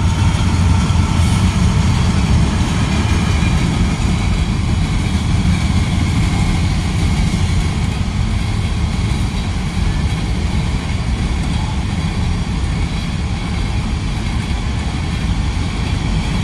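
Freight train rolling past: a loud, steady rumble of the locomotive and rail cars, with no horn.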